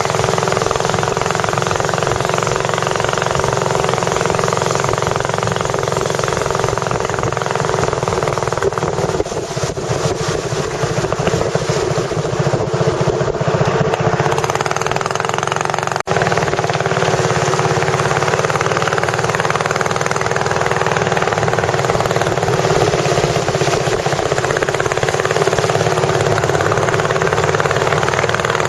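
A tourist boat's engine running steadily at speed, heard from on board, with a brief dropout about halfway through.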